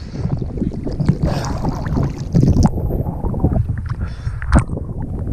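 Sea water splashing and sloshing around a person moving through the shallows, irregular and uneven, with a sharp splash about four and a half seconds in. A low rumble of water and wind runs underneath.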